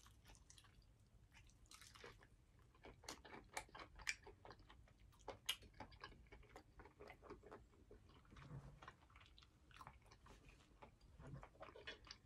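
Close-up chewing of a bitten fried chicken wing: faint, irregular crunches and mouth clicks.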